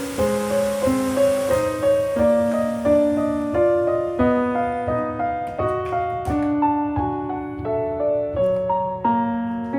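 Background piano music: a gentle melody of single notes over low chords, played at a moderate pace. A soft rain-like hiss under it fades away over the first half.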